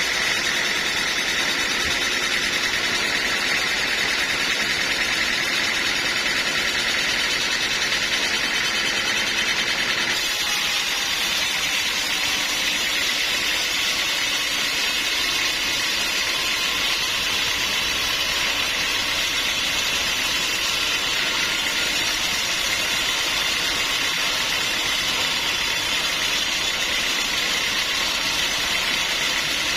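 Sawmill machinery running steadily, a continuous loud mechanical noise with a strong hiss; its tone shifts slightly about ten seconds in.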